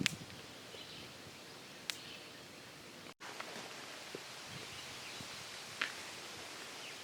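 Quiet woodland ambience with faint bird calls, broken by three short, sharp snaps or clicks.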